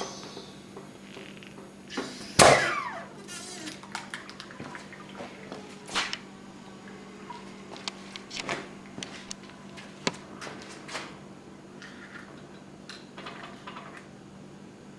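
Scattered knocks and clicks as the crushed plastic RC helicopter and the press parts are handled, with one louder knock about two and a half seconds in, over a steady low hum.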